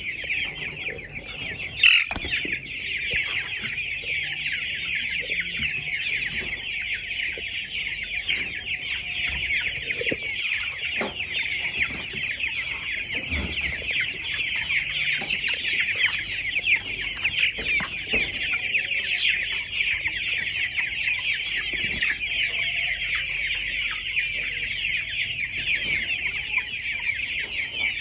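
Many two-week-old chicks peeping continuously, their high chirps overlapping into a steady chorus, with one brief knock about two seconds in.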